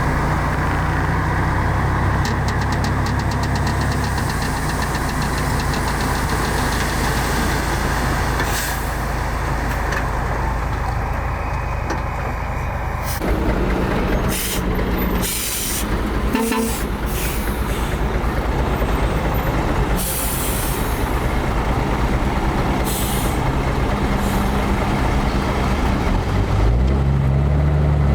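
Heavy diesel earthmoving machinery running steadily, a bulldozer and dump trucks working fill, with several short hisses partway through. Near the end an engine's pitch rises and dips as it is revved.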